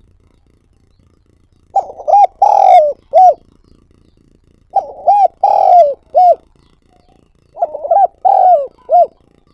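Spotted dove (cu gáy) cooing its song three times, about three seconds apart. Each phrase is a few short coos around one longer one.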